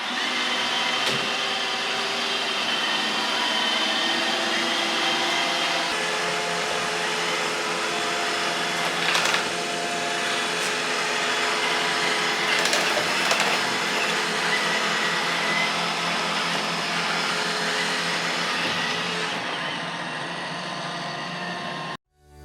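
iRobot Roomba i2 robot vacuum running: a steady hum of suction motor and brushes with a whine, plus a few clicks. It cuts off abruptly near the end.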